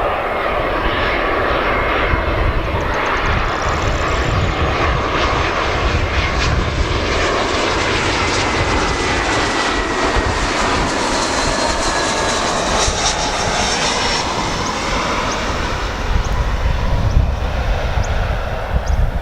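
Airbus A319's twin IAE V2500 turbofans on landing approach: a loud, steady jet rush with whining tones that slowly fall in pitch as the airliner passes.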